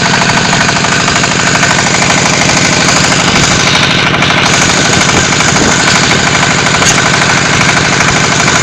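Diesel engine of a QT4-30 hydraulic block machine running steadily under load, with a fast, even rattling pulse.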